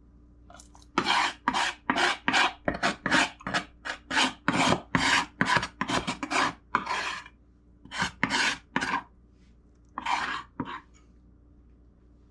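Repeated rasping scrape strokes, about two to three a second with a couple of short pauses, as skin and fat are scraped and cut off raw chicken.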